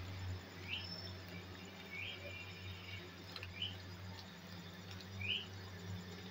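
Four short, high, rising chirps, like a small bird's, spaced a second or more apart over a steady low hum.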